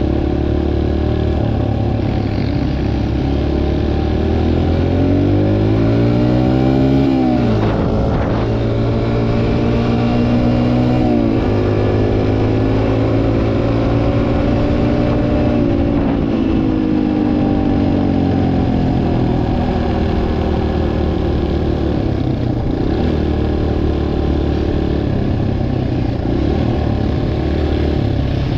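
Dirt bike engine running hard, its pitch climbing and then dropping sharply a few times, once about a quarter of the way in and again soon after.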